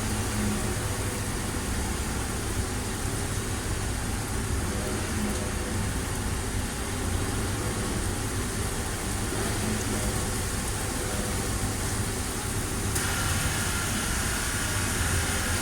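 Heavy thunderstorm rain and wind making a steady rushing hiss over a low rumble. Near the end the hiss turns brighter and stronger.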